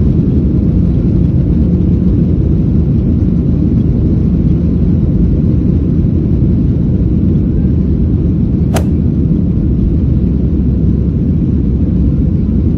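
Loud, steady rumble of a jet airliner heard inside the passenger cabin: engine and airflow noise. A single sharp click about nine seconds in.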